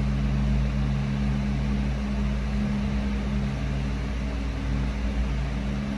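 A steady low mechanical hum over a constant hiss and rumble, unchanging throughout.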